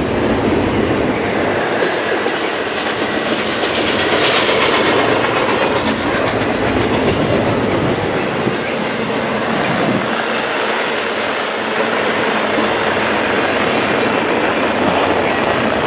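Double-stack container well cars of a freight train rolling past, a steady rumble and rattle of steel wheels on the rails, with a brief high wheel squeal about ten seconds in.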